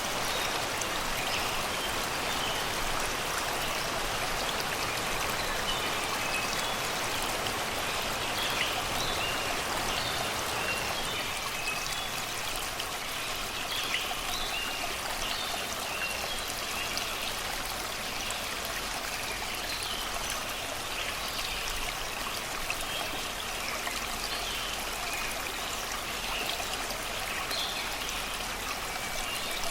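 Shallow river running over and around rocks and stones, a steady rush of water, with songbirds chirping in short calls throughout.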